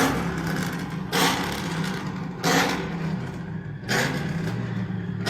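Car engines revving in short blips about every second and a half over a steady engine drone.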